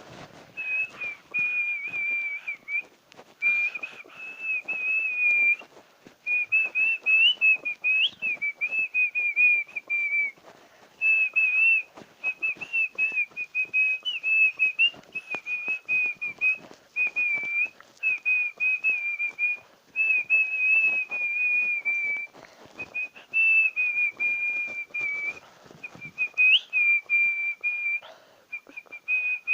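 A person whistling a tune with the lips, in phrases a few seconds long with short breaks, the pitch wavering and flicking up now and then.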